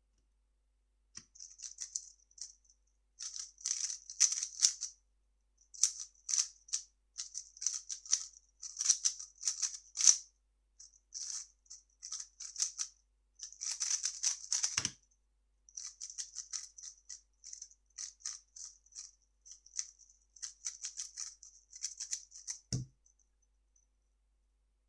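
A 3x3 speedcube being turned fast, its plastic layers clicking and rattling in quick bursts with short pauses between them. There are two dull thuds, about 15 seconds in and near the end, as the cube or a hand meets the table or timer.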